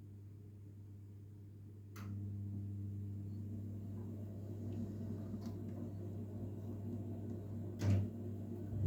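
Engine running steadily at idle, a low even hum that gets louder after a sharp click about two seconds in, with another knock near the end.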